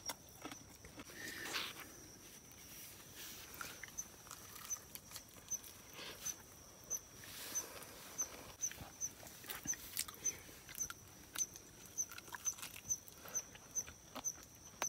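Close-up chewing of crispy fried chicken: many short, irregular crunches and mouth noises.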